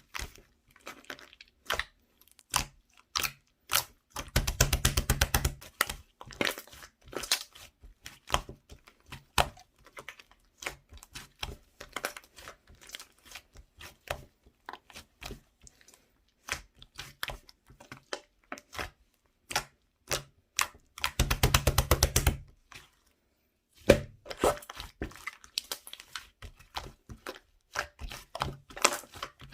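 Fluffy slime being pressed and squished by hand, making irregular sticky clicks and crackles, with two runs of rapid popping about four seconds in and again around twenty-one seconds.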